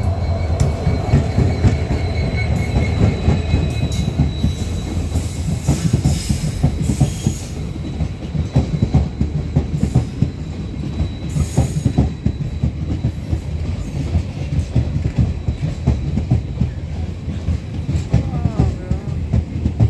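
Diesel-hauled passenger train running past: the locomotive goes by, then its coaches roll through with a steady rumble and clickety-clack of wheels over the rail joints. There are brief high-pitched wheel squeals about six seconds in and again near twelve seconds.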